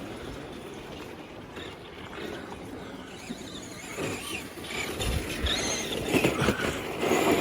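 Tamiya King Blackfoot electric RC monster truck driving, its motor whining over the noise of the tyres on the track, louder over the last few seconds.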